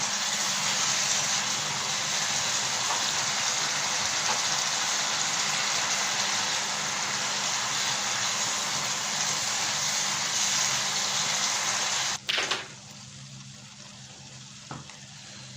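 Chicken angara curry sizzling steadily in the pan as it cooks down near completion; the sizzle cuts off suddenly about twelve seconds in.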